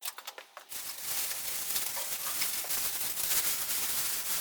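A steady, even hiss, strongest in the high frequencies, after a few short clicks at the very start.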